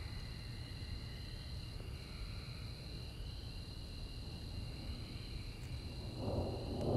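Steady high-pitched trilling of crickets over a low background rumble; about six seconds in, a roll of thunder begins to swell.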